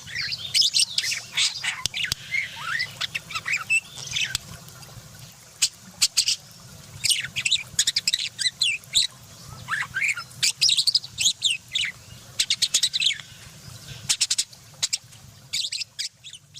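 Lovebirds chattering: quick shrill squawks and chirps in clusters with short pauses, over a steady low hum.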